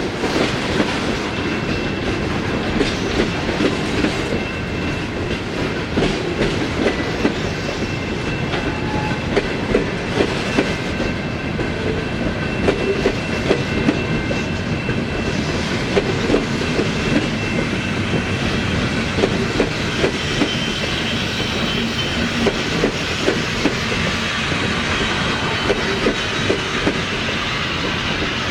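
Freight train cars rolling past, their wheels clicking rhythmically over rail joints.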